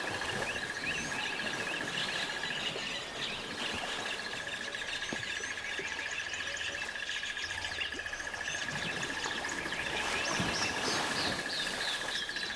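Birds chirping and twittering in many short calls, over a steady, rapid high trill that runs unbroken.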